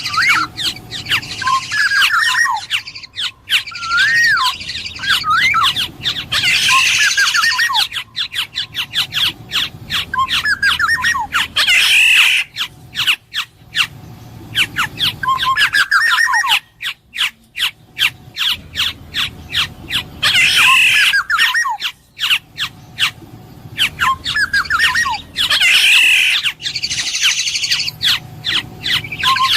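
Black-naped oriole calling: fluty whistled notes that glide up and down, mixed with harsh, nasal squawks that come back every few seconds.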